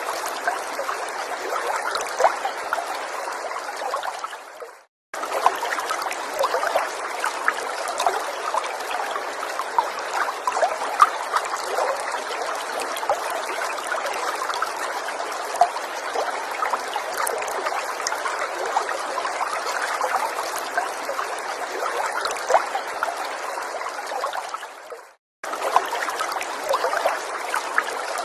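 A small forest stream trickling and babbling, a steady rush of water full of little splashes. The sound fades out and drops to silence for under a second twice, about five seconds in and near the end, then returns abruptly.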